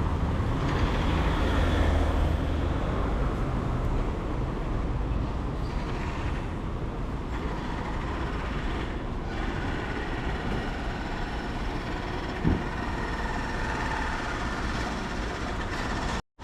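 Street traffic on a rain-wet city street: vehicles passing steadily, a heavy vehicle's engine loudest over the first few seconds, with a short knock about twelve seconds in.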